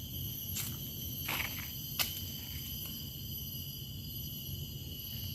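Steady chorus of forest insects, several high tones held without a break, with a low rumble underneath and a few short sharp clicks in the first two seconds.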